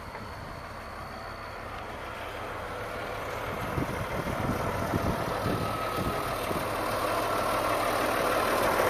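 Farm tractor engine running and growing steadily louder as it approaches, working a peat field.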